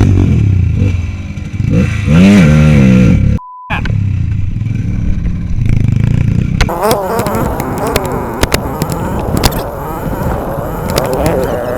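Motorcycle engine running, with a rev up and back down about two seconds in. A short steady beep sits in a brief break. From about halfway on, the engine runs with a wavering note and many sharp clattering knocks.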